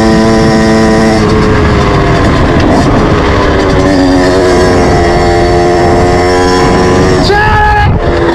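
Moped engine running steadily under way, its pitch shifting up and down in steps.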